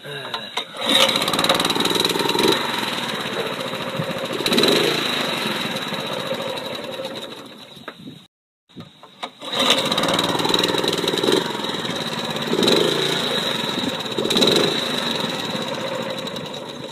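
Honda walk-behind lawn mower's small engine running. It cuts out briefly about eight seconds in, then runs again.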